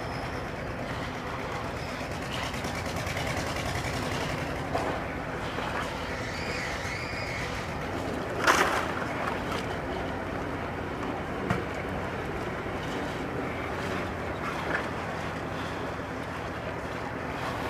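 An engine running steadily, with a short louder clatter about eight and a half seconds in and a few fainter knocks.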